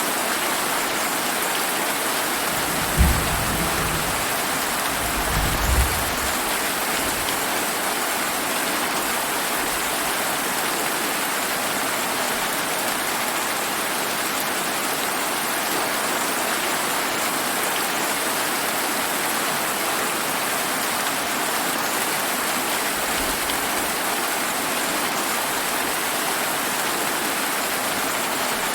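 Steady rainfall, with a sharp clap of thunder about 3 seconds in, a second low thunder roll a couple of seconds later, and a faint distant rumble near the end.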